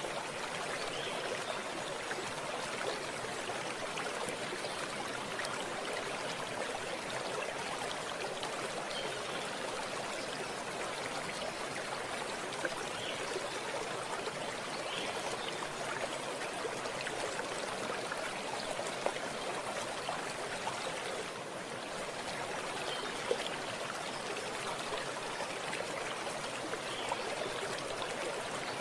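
Running water of a stream flowing steadily over stones, a continuous babbling with small splashes now and then.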